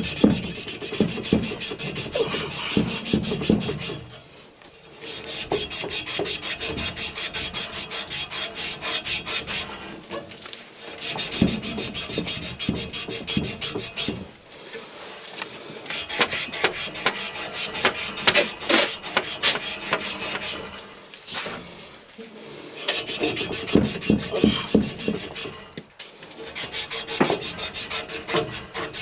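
Rapid back-and-forth scraping on a soldered copper water pipe, in runs of several seconds broken by short pauses, as the pipe is cleaned and cut near the old shut-off valve.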